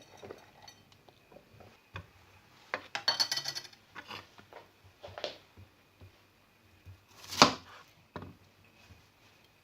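Kitchen handling sounds: dishes and utensils clinking and knocking. A short rattling clatter with a metallic ring comes about three seconds in, then single knocks, the loudest a sharp knock about seven and a half seconds in.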